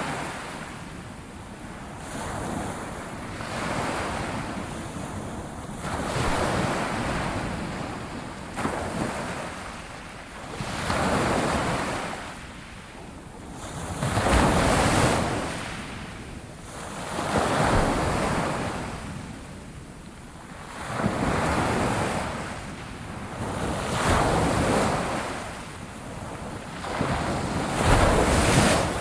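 Sea waves breaking on a shore, each swelling into a hissing wash and falling back, about every three seconds, with the loudest breakers about halfway through and near the end.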